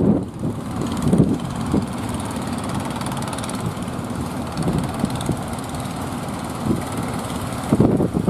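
Strong wind buffeting the microphone in irregular low gusts, over a steady rushing noise.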